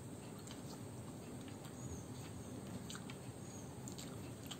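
Small clicks and smacks of chewing as rice and chicken are eaten by hand, over a steady low background hum.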